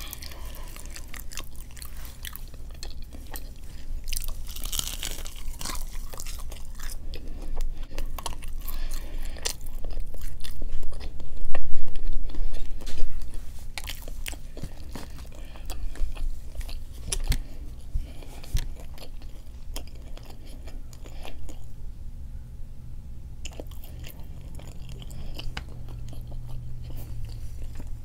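Close-miked chewing and biting of fried fast food, with crunching and mouth clicks; the eating is loudest about halfway through.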